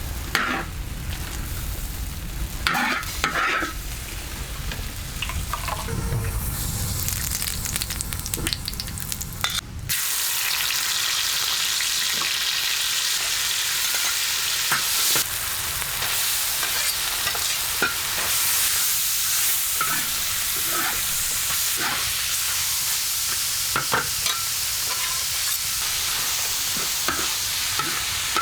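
Food sizzling as it fries in a hot pan and is stirred, with a utensil clicking and scraping against the pan. For roughly the first third there is a low rumble with scattered knocks, then the steady sizzling hiss starts abruptly.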